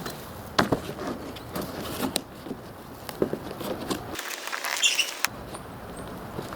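Irregular light scrapes, rustles and clicks of hand work on a car headliner.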